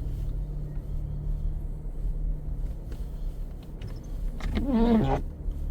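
Low, steady rumble of a car's engine and tyres heard from inside the cabin while driving slowly over snowy streets. A brief pitched sound, a short hum or call, cuts in about four and a half seconds in.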